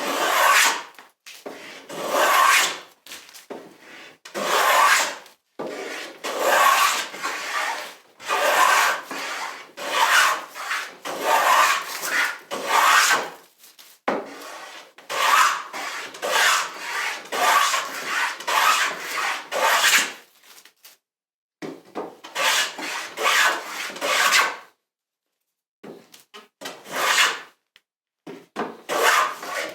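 A hand tool worked along wood in repeated rough strokes, each lasting about a second, with a short pause about 25 seconds in.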